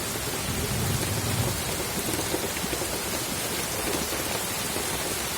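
Very heavy rain pouring down, a dense, steady hiss.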